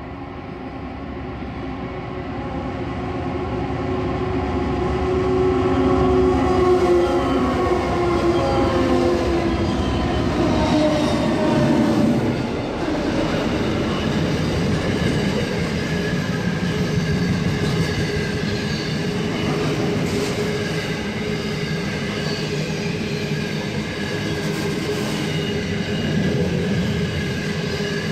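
A diesel-hauled freight train led by RL class locomotives approaching and passing close by: the locomotives' engine note grows louder over the first several seconds and drops in pitch as they go past, then the freight wagons roll by with a steady rumble and a few thin high tones over it.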